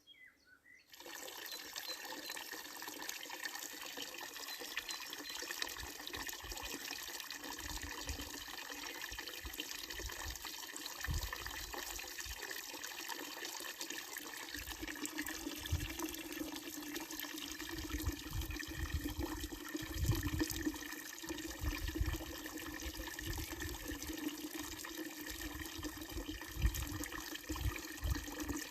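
Water running steadily from a fountain's wooden trough spout and splashing into its basin, after a gap of about a second at the start.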